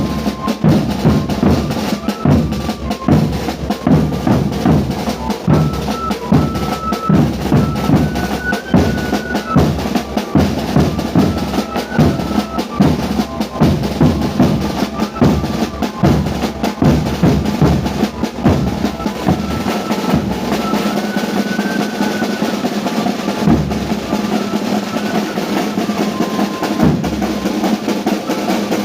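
A live band accompanying the dancers: bass drum and snare beating steadily under a high melody that steps between a few held notes. The deep drum drops out about twenty seconds in while the snare and melody carry on.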